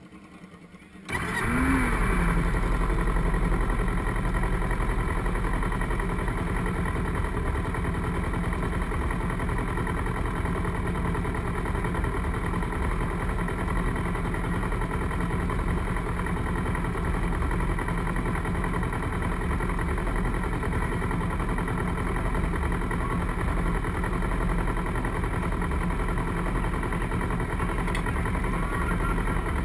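Racing motorcycle engines running, cutting in suddenly about a second in and then holding steady, with a brief rise and fall in pitch just after they start.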